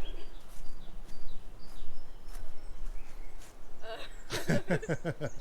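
Wind buffeting the microphone outdoors, with a few faint high chirps in the first two seconds and a short pitched voice-like sound about four seconds in.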